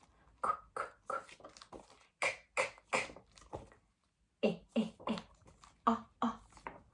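A woman's voice making short, isolated phonics letter sounds in quick succession, some voiced and some hissed or clipped, with a brief pause about halfway through.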